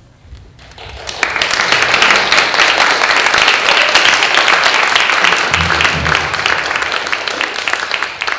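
Audience applauding: many hands clapping, starting abruptly about a second in and holding steady, easing slightly near the end.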